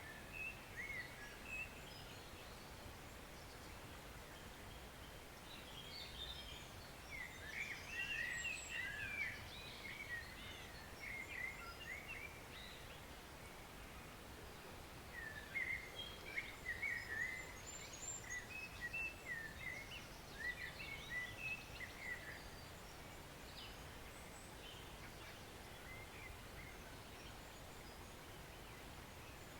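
Steady rush of a woodland stream, with small birds chirping in quick bursts, busiest about a quarter of the way in and again just past the middle.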